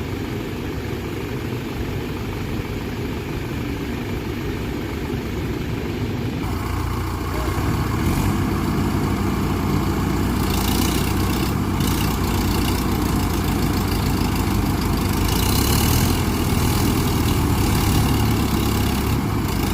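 Swaraj tractor's diesel engine running steadily. About six seconds in it speeds up and stays louder, as it works to pull the stuck tractor out of the mud.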